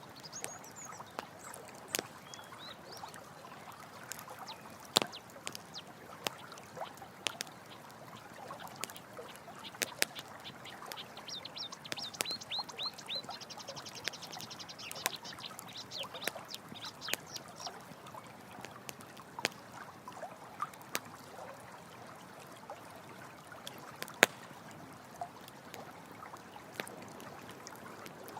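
Campfire crackling with sharp pops, one loud pop about two-thirds of the way through, over steadily running water. Around the middle an animal gives a quick run of high chirps.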